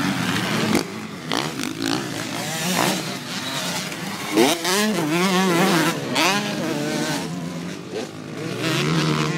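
Several motocross bikes racing past, their engines revving up and down with repeated throttle changes, the pitch rising and falling as they go through the gears.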